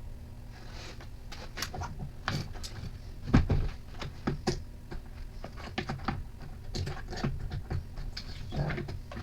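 Irregular clicks, taps and knocks of tools and small trimmer parts being handled on a workbench, with one louder knock about three and a half seconds in, over a steady low hum.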